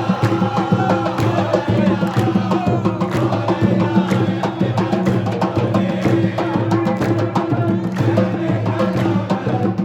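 A crowd of supporters chanting together to beaten drums.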